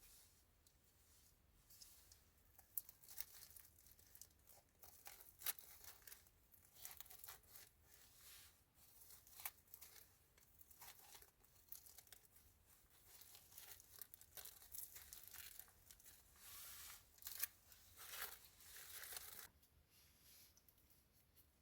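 Faint, irregular crackling and rustling, like material being crumpled or torn, that stops near the end.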